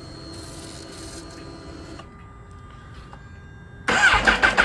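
Kawasaki Ninja H2 being started cold: a faint steady whir that stops about two seconds in, then near the end the starter motor begins cranking the engine with a sudden loud, rapid churning.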